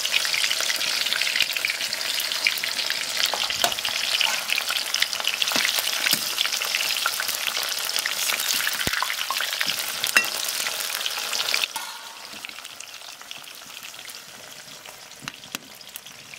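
Jackfruit, potato and soaked soybean pieces frying in hot mustard oil in a kadhai: a loud, steady sizzle with scattered clicks of a stirring spoon. About twelve seconds in, the sizzle suddenly drops to a much quieter level.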